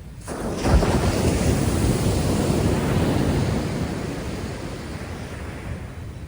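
A large wave from a rough sea breaking on the beach: a sudden crash just under a second in, then the surf washing up and slowly fading over the next few seconds.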